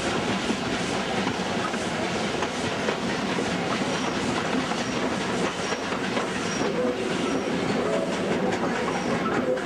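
Steam-hauled passenger train carriages running along the track, with a steady rumble and the clickety-clack rattle of wheels over rail joints. From about four seconds in, short faint high squeaks repeat roughly every half second.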